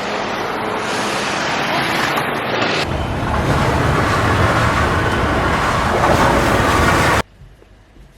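Street traffic noise: a steady hiss and rumble that changes abruptly to a heavier, lower rumble about three seconds in, then cuts off sharply to a much quieter background near the end.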